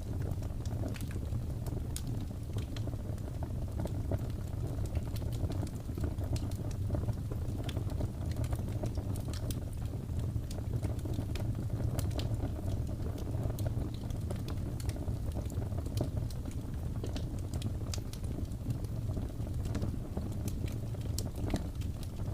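Wood fire in a fireplace crackling, with frequent sharp snaps and pops over a steady low rumble.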